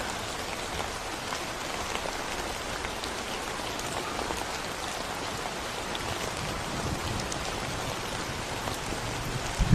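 Steady rain falling on a concrete road, an even hiss with fine raindrop ticks. Just before the end a low rumble of thunder begins.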